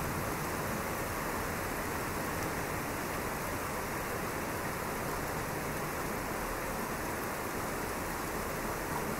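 Steady rain falling during a thunderstorm, an even hiss without a thunderclap.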